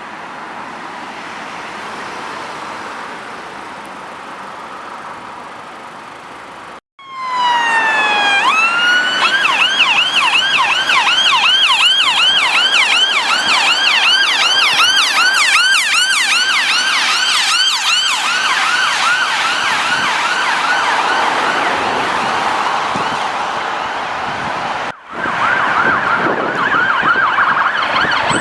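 Road traffic noise, then, after an abrupt start about seven seconds in, a Mercedes Sprinter ambulance's two-tone electronic siren in a fast yelp: a quick rising-and-falling sweep repeated several times a second. After a brief cut near the end the siren continues.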